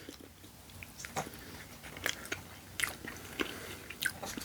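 A person chewing and biting into loaded fries topped with cheese and ranch: a faint, irregular string of soft mouth clicks and smacks.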